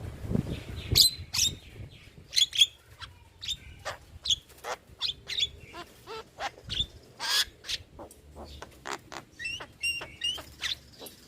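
Javan myna (jalak kebo) calling in a rapid, irregular run of short chirps, whistles and harsher notes, several a second, with a brief held whistle about ten seconds in.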